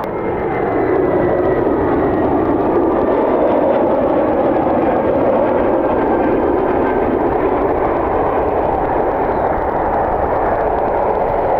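Jet airliner engines running, a loud steady rush of noise with a faint high whine above it.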